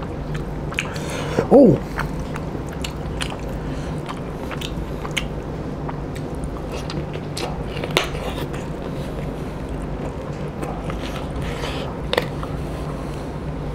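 A person biting and chewing mouthfuls of pork curry eaten by hand, close to the microphone: a stream of scattered sharp mouth clicks over a steady low hum, the loudest clicks about eight and twelve seconds in.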